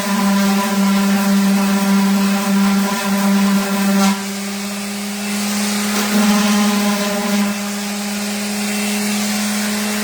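Electric orbital sander with 220-grit paper running on wood, a steady motor hum with a high whir above it. It gets quieter for a couple of seconds about four seconds in, picks up again, then drops back for the last couple of seconds.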